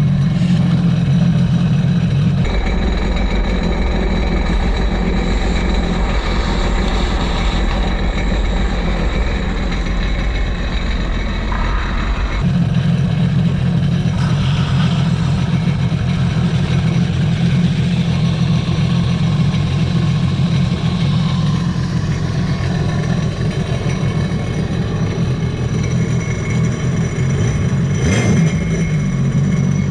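2022 Sea-Doo RXP-X 300 jet ski's supercharged engine running through a Riva free-flow exhaust, with a sporty tone that is not extremely loud. Its note drops into a deeper rumble about two seconds in and returns to its higher note around twelve seconds in.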